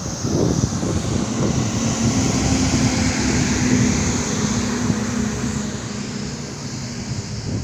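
Road vehicle noise on a highway, engine and tyre noise with a steady hum, swelling just after the start and easing toward the end, with wind buffeting the microphone.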